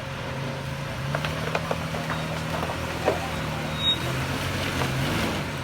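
SUV engine working under load on a slippery rocky trail climb, its pitch rising about a second in, holding, then dropping near the end. Scattered knocks and clicks of tyres and stones over rock.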